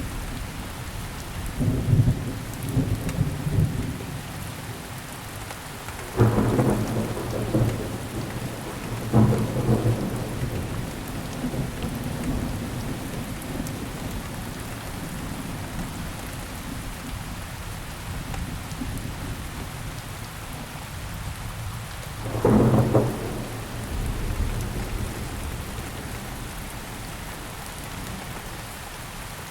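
Steady rainfall with repeated rolls of thunder: deep rumbles swell about two, six, nine and twenty-two seconds in, each dying away into the rain.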